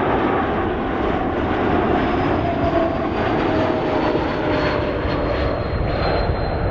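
Air Baltic Airbus A220's Pratt & Whitney PW1500G geared turbofans at high power during a go-around: a steady, loud jet roar with faint whining tones slowly falling in pitch as the aircraft passes and climbs away.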